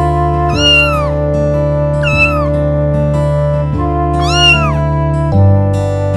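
A cat meows three times, each call rising and then falling in pitch; the second call is the shortest. The meows sit over background music of held chords that change near the end.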